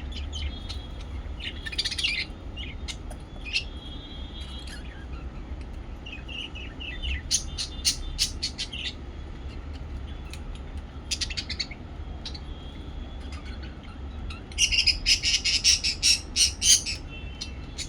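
Lovebirds chirping and calling in short bursts of sharp, high chirps, building to a loud run of rapid shrill calls near the end, over a steady low hum.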